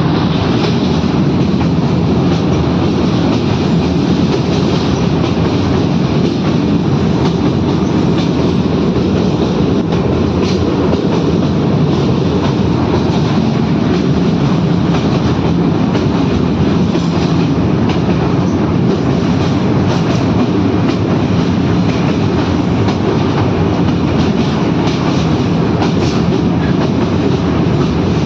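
A train running along the rails with a steady, loud rumble and faint clicks now and then from the wheels over the rail joints.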